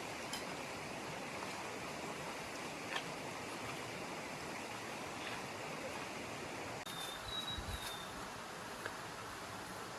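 Stream water running steadily over rocks, with a few faint clicks; a little before the two-thirds mark the sound dips briefly and a short high whistled note follows.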